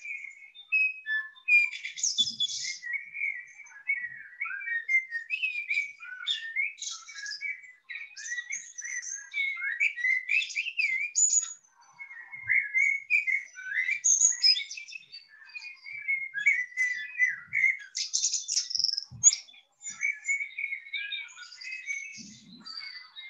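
Songbird singing without pause: a busy run of quick chirps, trills and whistled warbles that slide up and down in pitch.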